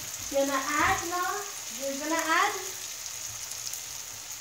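Sliced mushrooms frying in a grill pan with a steady sizzle. A voice is heard twice over it, briefly each time, about half a second and two seconds in.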